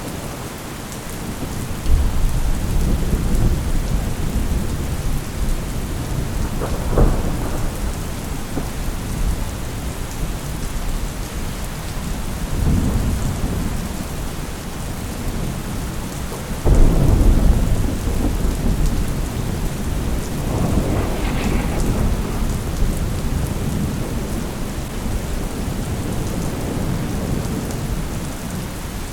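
Thunderstorm: steady rain with thunder rumbling several times, including a sharper crack about seven seconds in and the loudest rumble just past halfway.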